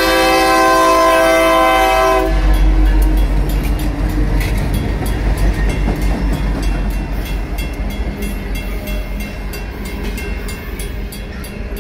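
A Dakota and Iowa Railroad diesel locomotive's multi-chime horn sounds one held chord that cuts off about two seconds in. Then the locomotive's diesel engine runs past, and freight cars roll by with an even clickety-clack of wheels over the rail joints and crossing.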